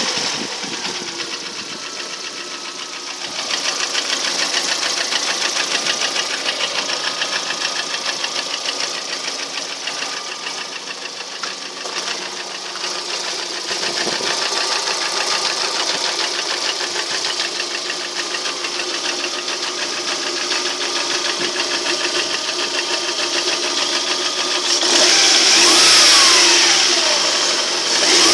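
Lada Priora engine running at idle with a fast, even knocking tick that the owner cannot explain. It is unchanged after a year of running with only oil changes. Near the end the engine revs up briefly and gets louder.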